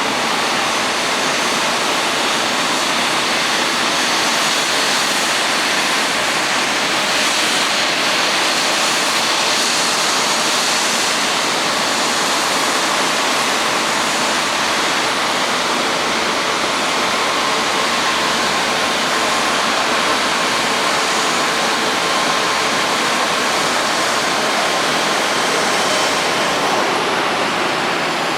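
Japan Airlines Airbus A350-941's Rolls-Royce Trent XWB jet engines idling as the airliner taxis into its stand: a steady engine hiss with faint whine tones.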